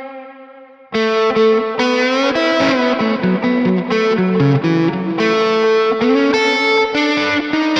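Distorted electric guitar lead through the Neural DSP Mesa Boogie Mark IIC+ amp-modelling plugin, on a soupy lead tone with effects. A held note fades out, then about a second in a melodic lead line begins, with notes sliding between pitches.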